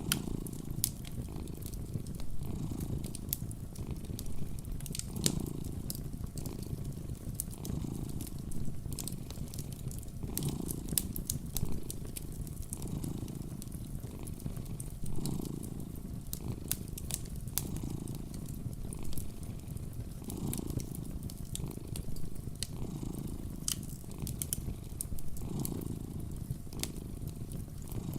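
A cat purring steadily, swelling about every two and a half seconds with each breath, over the scattered sharp crackles of a fireplace fire.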